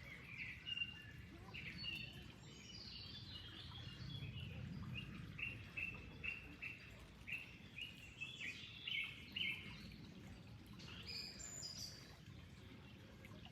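Small birds chirping, with a run of short, evenly repeated notes, about two or three a second, in the middle, over a steady low rush of flowing water.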